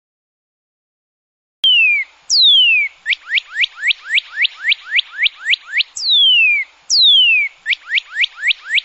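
A bird singing: long down-slurred whistles alternating with fast runs of short notes at about five a second, starting after a second and a half of silence.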